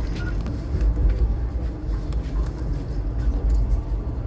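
Passenger train running: a steady low rumble of the moving carriage, with a few faint clicks over it.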